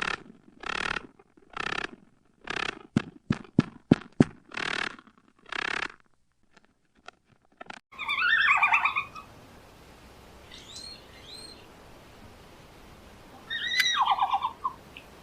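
Animal sounds in two parts. First comes a run of short, rough, breathy bursts about twice a second, with a few sharp clicks among them. After a change of recording about eight seconds in, there is a falling call, then fainter calls, then a rapid pulsed call near the end.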